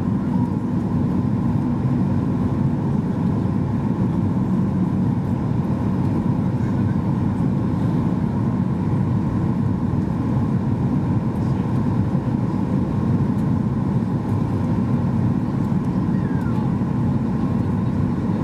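Steady engine and airflow noise heard inside the passenger cabin of a Boeing 737 MAX 8-200, from its CFM LEAP-1B turbofans. It is a constant low rush with a faint steady hum on top, and the level does not change.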